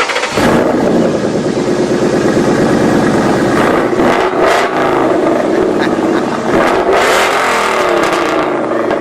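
A car engine running loudly and revving, its pitch rising and falling several times.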